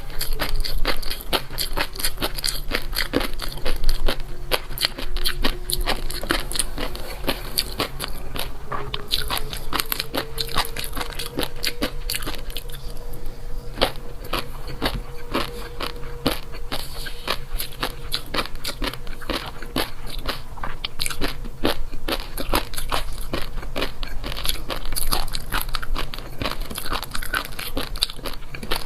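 Close-miked chewing of crunchy food: a continuous run of crisp crunches, several a second, with brief pauses between bites.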